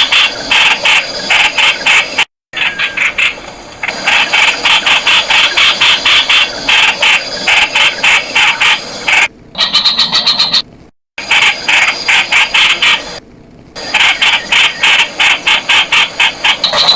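Streak-eared bulbul calling: fast runs of short, sharp notes at about six a second, broken by a few sudden drop-outs where the sound cuts off.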